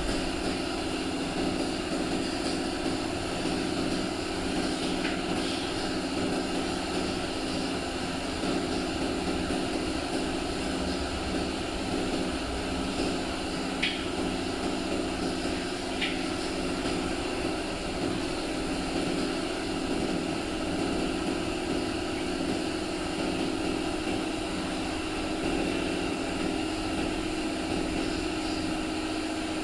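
Steady, unchanging drone of workshop machinery, with a hum and no starts or stops, and two faint clicks about halfway through.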